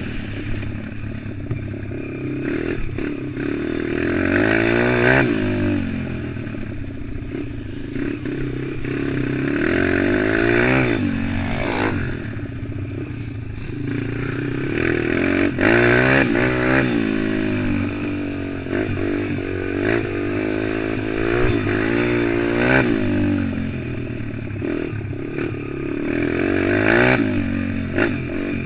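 140cc pit bike engine under way, revving up and dropping back again and again as the bike accelerates and changes speed, with rising pitch sweeps about every five seconds.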